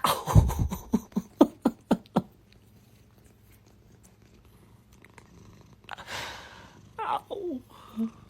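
A cat vocalizing: a quick run of short calls, about four a second, over the first two seconds, then a single falling call about seven seconds in.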